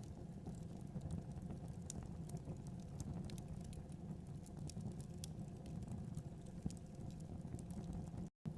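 Wood fire in a fireplace crackling, with irregular sharp pops and snaps over a steady low rumble of the flames. The sound drops out completely for a moment near the end.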